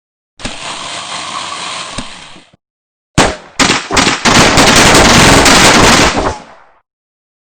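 Rapid gunfire-like noise in two bursts: a softer one of about two seconds, then after a short gap a much louder one of about three and a half seconds.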